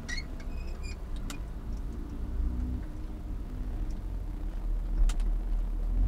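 Porsche sports car's engine running at low revs, heard from inside the cabin, as the car creeps in first gear and rolls to a stop. A few light clicks come near the start and again about five seconds in.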